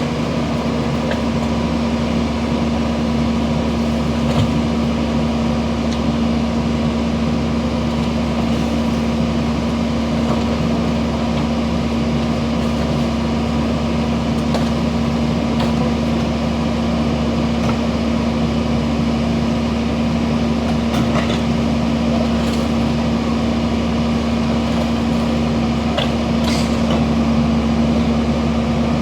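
Garbage truck engine running steadily with a constant droning hum, with a few faint clicks in the second half.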